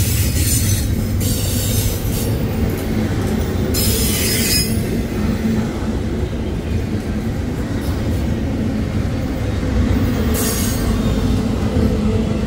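Double-stack intermodal freight train rolling past: a steady rumble and clatter of steel wheels on rail, with brief high-pitched wheel squeals about four seconds in and again near ten seconds.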